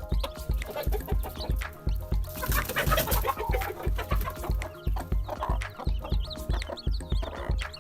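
Chickens clucking over background music with a steady beat; the clucking is busiest from about two to four seconds in.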